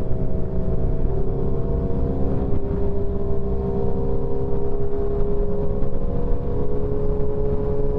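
Motorcycle engine running at a steady cruising speed on the highway, its note holding even, over a low rumble of wind and road noise.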